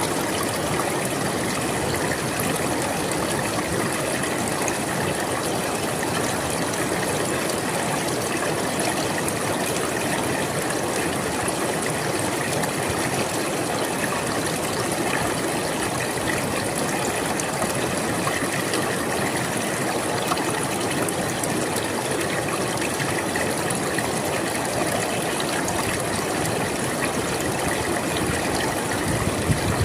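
River water flowing steadily over rocks, a constant rushing and trickling.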